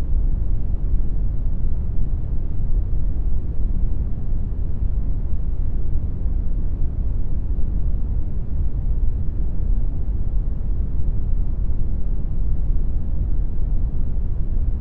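Computer-generated brown noise: a steady, unchanging rumbling hiss, heaviest in the bass and dropping off toward the treble.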